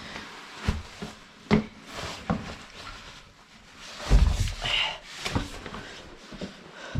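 Scattered knocks, rubs and rustling from handling winter clothing and gear, with one heavy thud about four seconds in.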